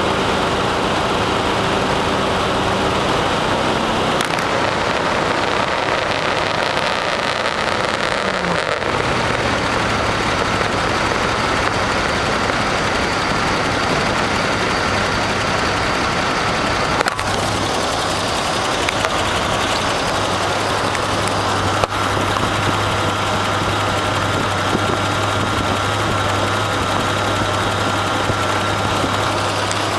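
A big engine running steadily, held at a raised speed for the first nine seconds or so, then dropping back to a lower, steady idle.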